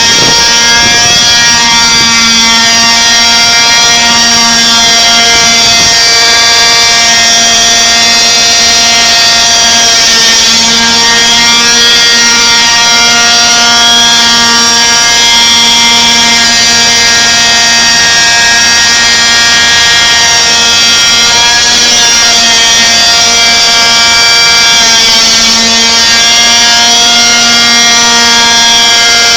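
Gas-powered T-Rex 600 RC helicopter hovering, its Zenoah 27 two-stroke engine running through an RJX tuned exhaust at a steady, very loud pitch that drifts only slightly.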